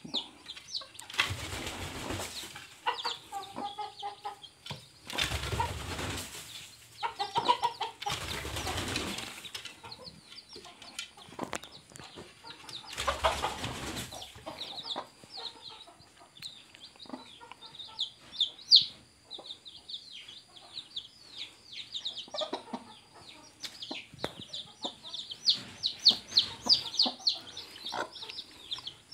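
Newly hatched chicks peeping in short, high chirps, thickest in the second half, with the mother hen's occasional low calls. Four bursts of flapping or rustling noise break in during the first half.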